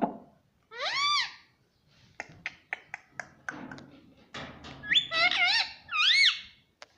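Rose-ringed parakeet calling: a rising-then-falling squawk about a second in, a string of sharp clicks, then a run of several pitched squawks that glide up and down near the end.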